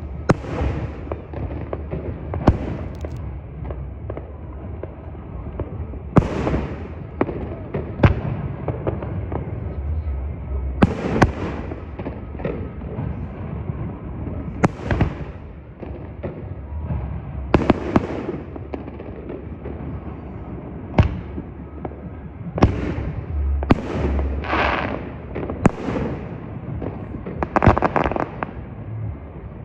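Fireworks going off: a string of irregularly spaced bangs, some followed by crackling, with a cluster of several in quick succession about three quarters of the way through.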